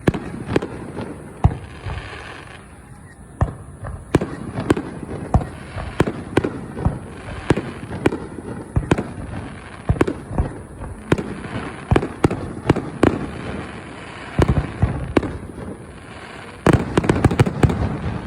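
Fireworks exploding overhead in a steady run of sharp bangs, about one or two a second, each with a short rumbling tail, and a quick cluster of many bangs near the end.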